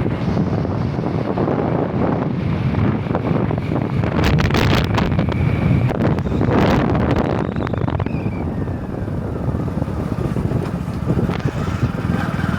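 A vehicle running, with wind rumbling on the microphone. Two louder gusts of noise come about four and about six and a half seconds in.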